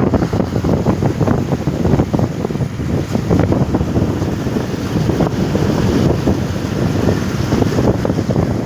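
Wind buffeting the microphone of a moving motorbike: a loud, steady, fluttering rumble.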